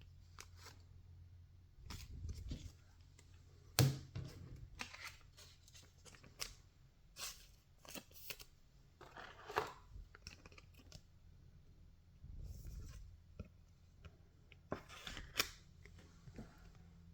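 Baseball trading cards being handled and flipped through one at a time: irregular soft slides and short sharp card snaps, the sharpest about four seconds in.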